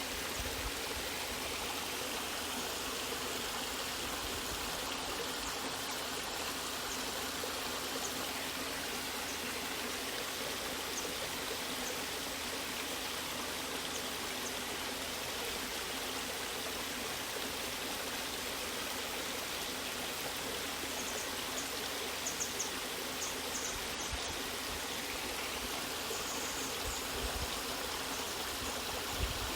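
Waterfall: water rushing steadily with an even, unbroken hiss.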